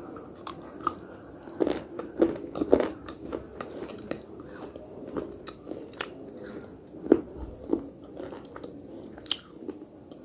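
A person biting and chewing hard, crunchy earthy pieces close to the mouth. Irregular sharp cracks run over steady crunching, the loudest a couple of seconds in and again about seven seconds in.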